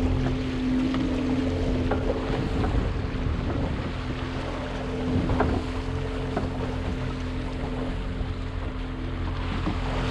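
Motorboat engine idling with a steady hum, under wind buffeting the microphone and water sloshing against the hull. A few short sharp sounds cut through, the loudest about five seconds in.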